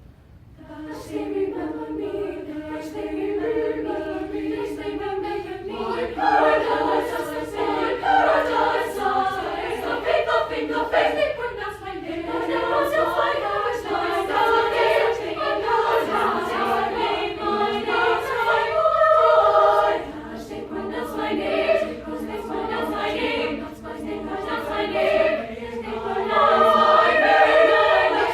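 High school choir singing a cappella, in high voices. The singing enters just after the start and goes on in phrases that swell and ease off.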